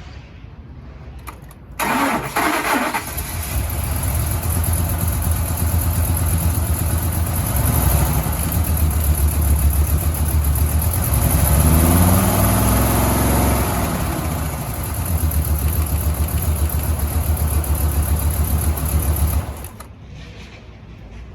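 A 2012 Ford F-550's engine cranked over by the starter for about a second, catching and settling into a steady idle. It is revved up and back down around the middle, idles again, and is switched off a couple of seconds before the end.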